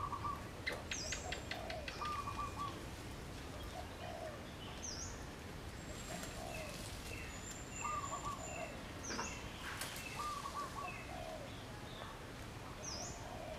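Several wild birds calling over a steady background hiss: a short wavering phrase repeated every few seconds, a high, quick whistle that dips and rises about four times, and scattered lower short notes. A brief run of fast clicks comes about a second in.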